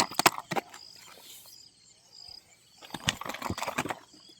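A freshly caught murrel (snakehead fish) flapping and thrashing, in quick bursts of sharp slaps at the start and again about three seconds in. Insects chirp faintly and steadily in the background.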